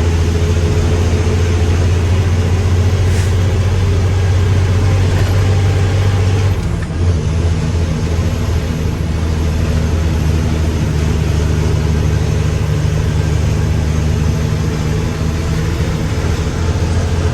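Heavy diesel engine of a Mack dump truck running steadily under load, its note shifting about six and a half seconds in.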